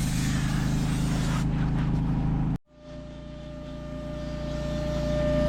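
A steady low motor hum that cuts off abruptly about halfway through, followed by another steady motor hum with a thin high whine that grows gradually louder.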